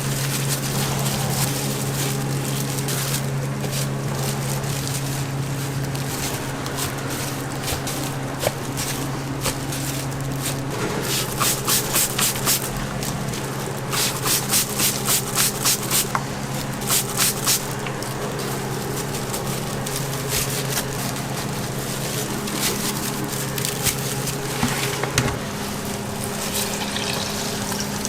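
Working doughnut-shop kitchen: a steady hiss over a low machine hum, with two runs of quick, regular clacking in the middle.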